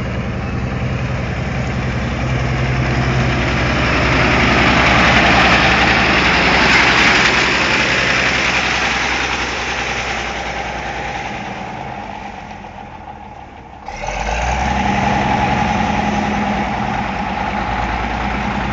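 Heavy engine of road-construction machinery running steadily, with a louder noisy swell about five to seven seconds in. It fades near twelve seconds and cuts back in abruptly about fourteen seconds in.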